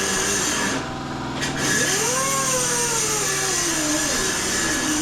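Power tool running with a motor whine that dips and rises in pitch as it is loaded, over a steady hiss; the hiss drops out briefly about a second in.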